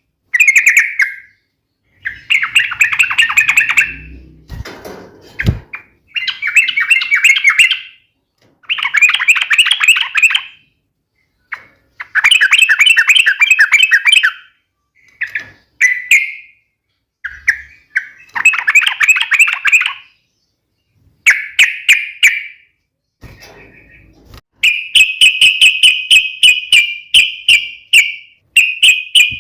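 Yellow-vented bulbul (trucuk) singing loudly in bursts of rapid chattering notes, each burst a second or two long with short pauses between. Near the end comes a longer run of quick repeated notes.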